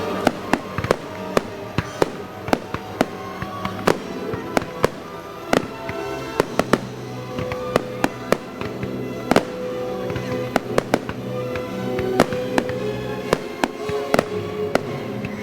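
Fireworks going off in a rapid, irregular string of sharp bangs and pops, several a second, over music with long sustained notes.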